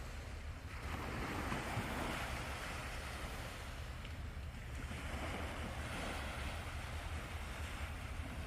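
Sea waves washing onto the beach, the surf swelling and easing every few seconds, over a low steady rumble of wind on the microphone.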